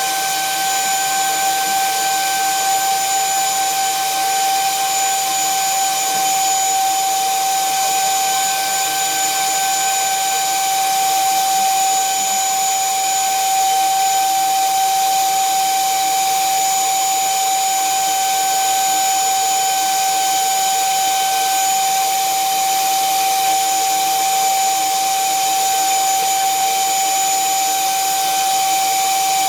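Electric drill running at a steady speed, a constant high whine that holds the same pitch throughout.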